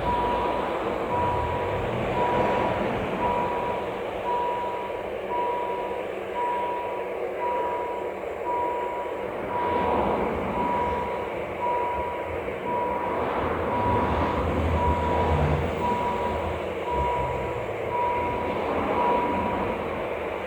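Swiss level crossing warning signal beeping, a single steady tone about once a second, which stops near the end, over a continuous rumble.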